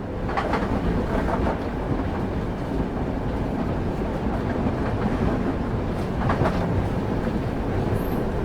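Train running on the rails, heard from on board: a steady low rumble of the wheels and carriage, with a few clacks as the wheels pass over rail joints.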